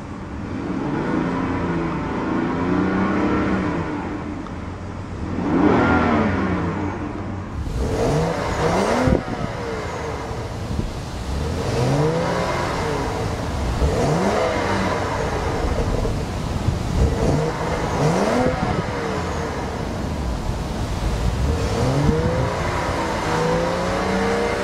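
2011 BMW 535i's turbocharged 3.0-litre inline-six being revved in repeated quick throttle blips, about one every two seconds with a bigger rev about six seconds in, the pitch climbing and dropping back each time. It revs freely, with a bit of turbo whine.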